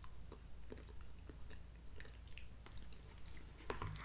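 A person chewing a mouthful of a Salisbury steak TV dinner, faint wet mouth sounds and small clicks. Near the end come a few sharper clicks as a fork works in the plastic tray.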